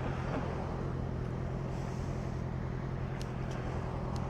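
Honda CRF1100 Africa Twin's parallel-twin engine running at a steady, low pace while riding, with road and wind noise on the bike-mounted microphone. A few faint ticks come near the end.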